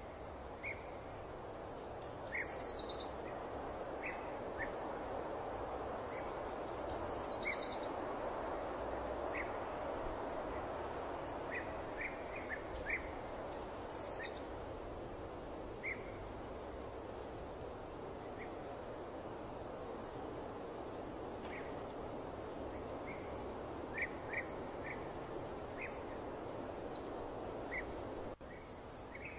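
Nature ambience: birds calling over a steady background noise. A few high calls slide downward in pitch, at about two, seven and fourteen seconds in, and short chirps come scattered throughout.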